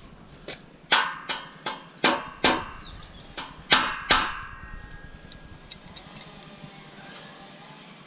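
Scrap metal clanking: about eight sharp metallic knocks in quick succession, each with a brief ring, over roughly three seconds, then the knocking stops.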